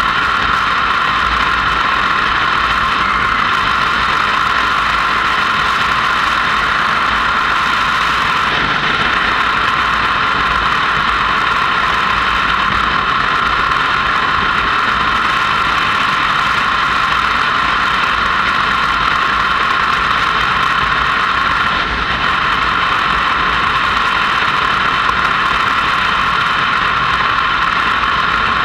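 Motorcycle on the move, a steady mix of engine and road noise with no change in pitch or level.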